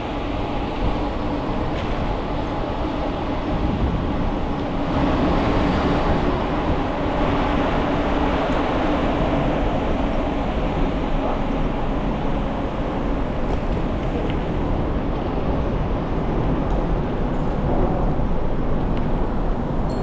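Steady riding noise from a bicycle in motion: tyres rolling with a low hum, and wind rumbling on the microphone.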